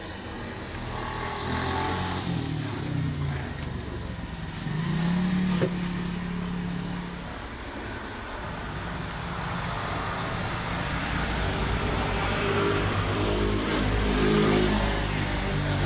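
Motor vehicle engines running, as in road traffic, growing louder toward the end.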